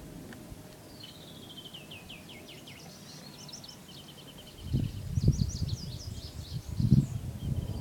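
Songbirds singing: a series of quick notes dropping in pitch about a second in, then other runs of short high chirps. From about five seconds in, low gusty rumbling on the microphone comes and goes, louder than the birds.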